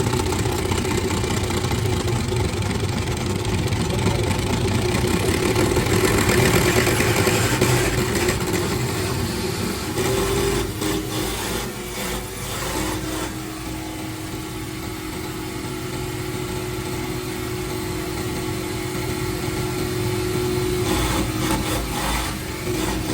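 Engine running steadily, with a held hum that shifts slightly in pitch about 11 seconds in and again near the end.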